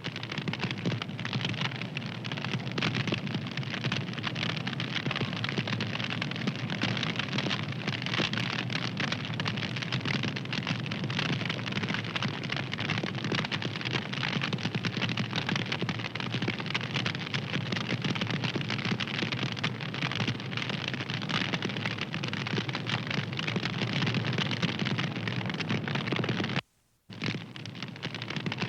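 Wood fire crackling steadily, a dense hiss full of small pops and snaps. About a second before the end it cuts to silence for half a second, then resumes.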